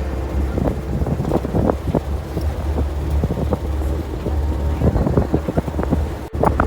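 UAZ off-road vehicle on the move: a steady low engine drone with frequent irregular knocks and jolts.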